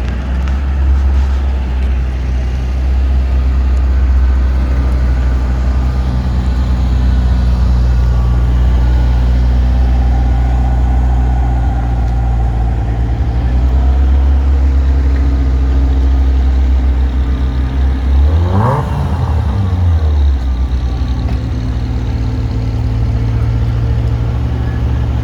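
A car engine running steadily with a deep, loud hum. It is revved once, rising and falling quickly, about 18 seconds in, then settles back.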